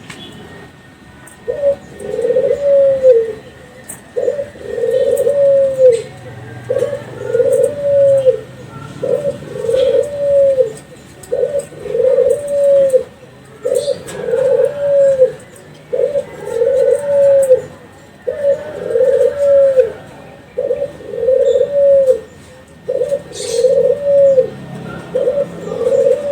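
Kelantan derkuku, a bred spotted dove, cooing over and over. It gives a phrase about every two seconds, each a short note followed by a longer arching coo.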